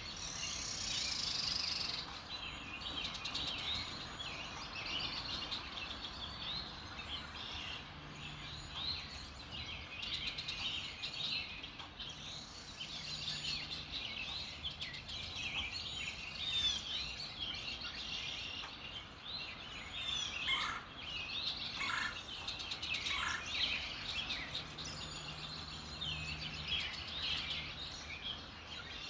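Early-morning chorus of many songbirds singing and chirping at once in dense, overlapping high whistles and trills. A few lower, falling calls come in about twenty seconds in.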